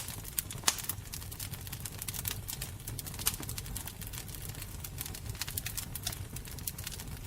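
Fire crackling, with irregular sharp pops over a steady low rumble of the flames; the loudest pops come about a second in and again at about three seconds.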